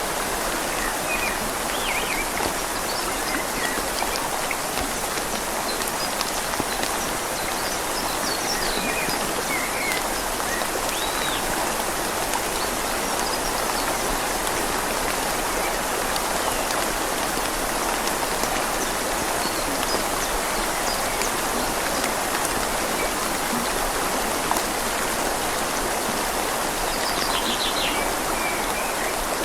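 Steady rain falling on leaves, blended with the gentle flow of a river, an even hiss. A few faint high chirps sound now and then over it.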